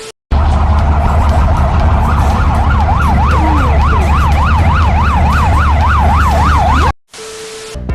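Emergency vehicle siren in a fast yelp, its pitch swinging up and down about three times a second, over a loud, steady low rumble of a vehicle running. Both cut off abruptly near the end.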